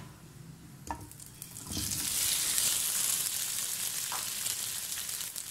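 Boiled potato pieces tipped into hot oil and fennel seeds in a non-stick wok: after a light knock, a loud sizzle of frying starts suddenly about two seconds in as the potatoes hit the oil, and it keeps going.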